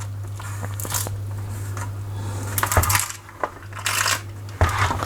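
Rexel LV250HS laminator running with a steady low motor hum, with several bursts of crunching and crackling as the jammed laminating pouch is chewed in its rollers.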